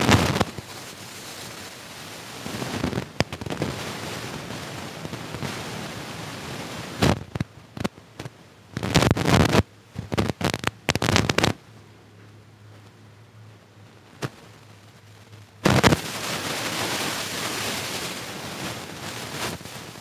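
Close-miked chewing and crunching of fried street food: bursts of loud, crackly crunches near the start, a cluster around the middle and again late on, with softer chewing noise between.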